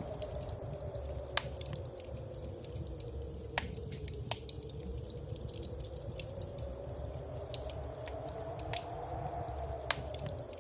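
Wood fire crackling in a fireplace: irregular sharp pops and snaps over a low rumble, with a faint tone that slowly rises and falls underneath.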